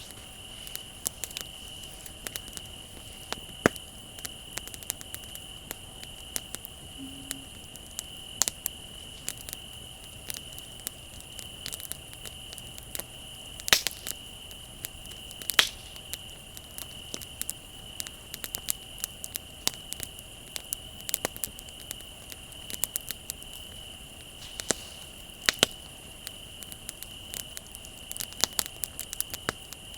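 Wood bonfire crackling, with scattered small pops and a few louder cracks, over a steady high cricket trill.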